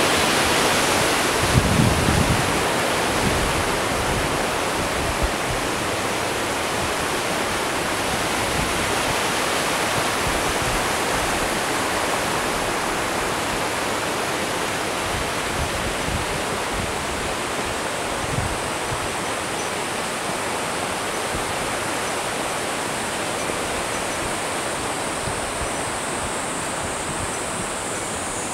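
Fast, heavy rush of a mountain stream and waterfall: a steady, dense noise of falling and tumbling water.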